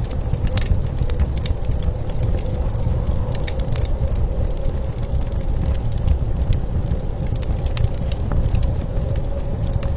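Wood fire crackling with scattered sharp pops, over the steady low rumble of blizzard wind with a faint whistling tone.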